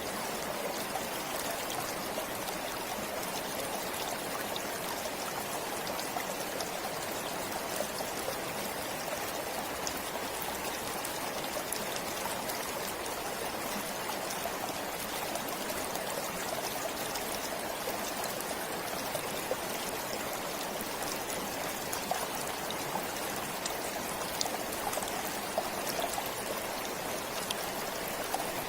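A forest stream flowing steadily, its water babbling and trickling with small splashes.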